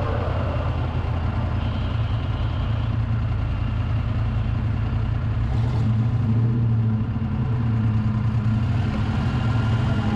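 The Trail Horse off-road vehicle's engine running steadily under load at cruising speed. The low engine hum gets stronger about six seconds in.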